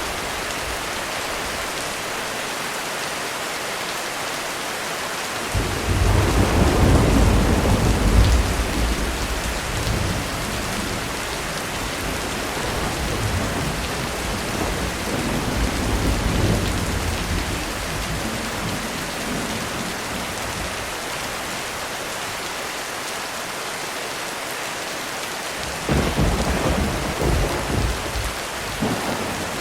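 Steady heavy rain on a roof. About five seconds in, a thunderclap breaks and rolls on, rumbling and fading over some ten seconds. A second, shorter peal of thunder comes near the end.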